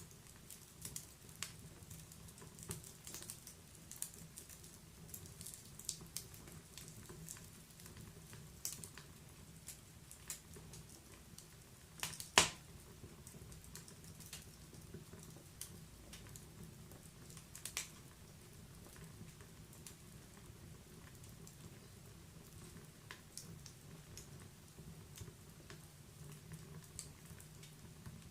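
Fire in a fireplace crackling: scattered irregular pops and snaps, with one much louder pop near the middle, over a steady low rumble.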